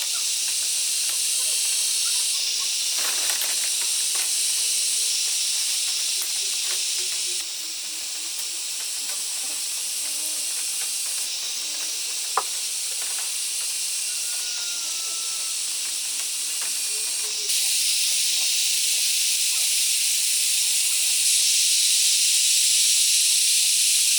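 A steady, high-pitched hiss that drops in level about 7 seconds in and rises again near 17 seconds, with a few faint knocks and one sharp click midway.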